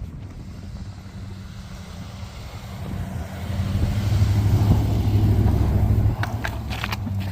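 Plow truck engine running with a steady low hum. It grows louder for a couple of seconds, drops off suddenly about six seconds in, and a few short knocks follow near the end.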